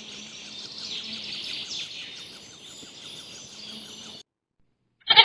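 Outdoor nature ambience of birds chirping, with insects and a faint regular ticking underneath; it cuts off about four seconds in. After a brief gap, a loud pulsing call begins right at the end.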